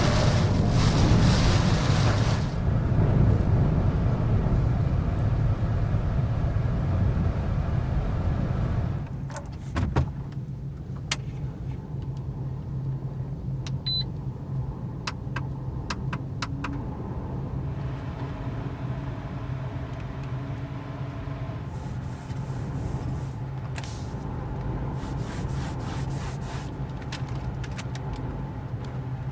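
Car engine running with a steady low hum. Loud rushing noise masks it for the first several seconds, and scattered sharp clicks and short hissing bursts come in the second half.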